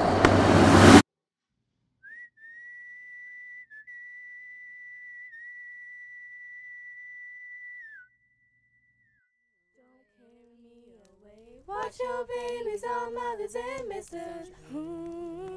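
A loud rushing noise cuts off abruptly about a second in. After a pause, a single high, steady whistle-like tone holds for about six seconds and fades. Near the end, a woman starts humming a slow wordless tune.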